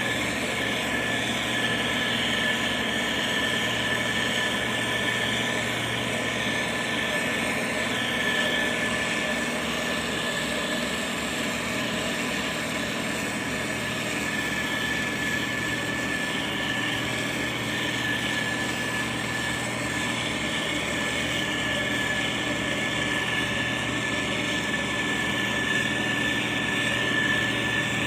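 Diesel engine of heavy road-building machinery running steadily, with a steady high-pitched whine over it.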